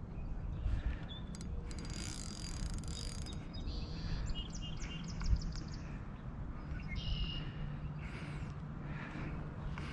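Small birds chirping in short, scattered calls, with a quick trill about four seconds in, over a steady low rumble.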